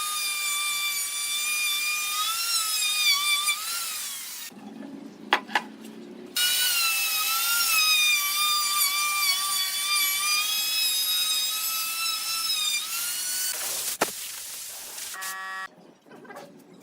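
Electric power tool running on wood with a high motor whine, its pitch sagging and recovering as it cuts. The whine stops about four seconds in, leaving a few knocks, starts again about two seconds later, and stops near the end, followed by light clicks and knocks.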